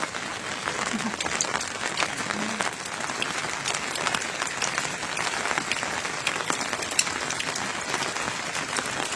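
Steady rain falling, a dense hiss made of many small drop impacts.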